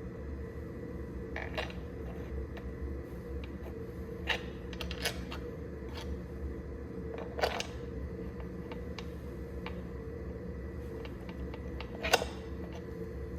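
A steady machine hum with a handful of sharp metallic clinks and knocks, the loudest near the end, typical of metal tools and engine parts being handled during cylinder boring work.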